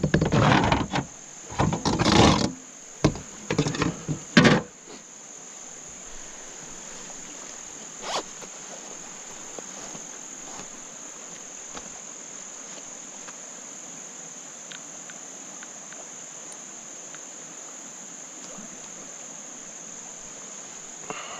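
Insects chirring in one steady high-pitched band. A few loud knocks and rustles come in the first few seconds.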